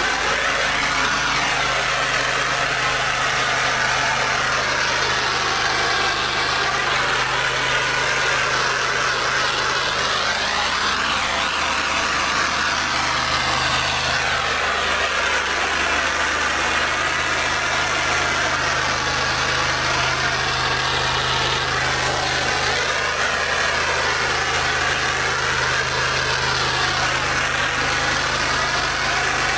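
Pressure washer's gas engine running steadily, with a dense hiss of high-pressure water spray over it.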